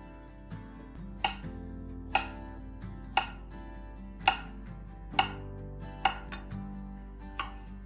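Knife slicing dill pickles, one cut about every second, over soft background music.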